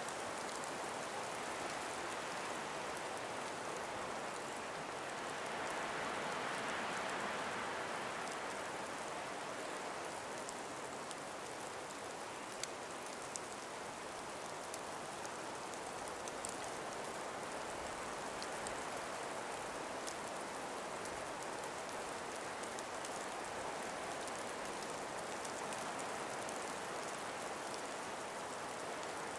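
Calm breeze through ice- and snow-laden forest trees: a steady soft rushing that swells a little about six seconds in, with scattered faint ticks.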